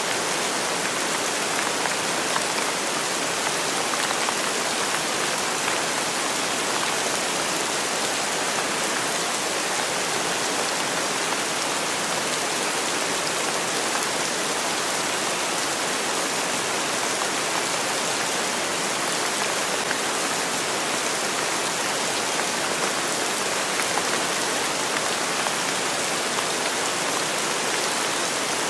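Steady rain falling on a surface, an even hiss with no change in strength.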